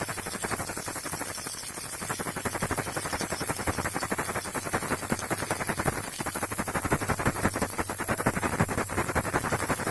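Baby rattle shaken fast and without pause: a dense, even stream of small rattling clicks over a steady high hiss.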